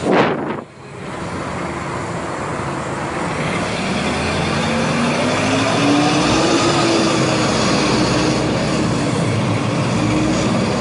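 Agrale MT 17.0 LE city bus's four-cylinder diesel engine pulling away, its tone rising over a couple of seconds and then holding steady. A short loud burst of noise comes right at the start.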